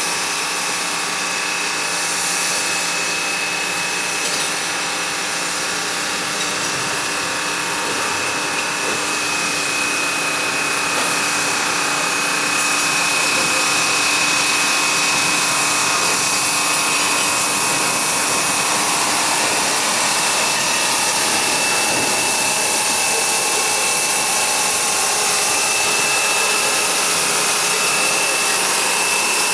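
Steady machinery running, with a continuous high whine over a hiss, growing louder about twelve seconds in.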